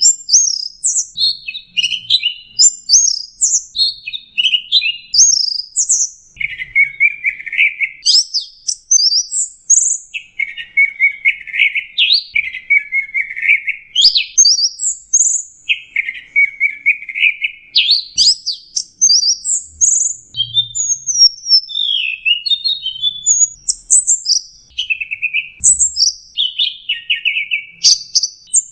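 Long-tailed shrike (cendet) singing a long, unbroken, varied song. Quick high chirps and whistled sweeps alternate with lower, harsh rasping phrases.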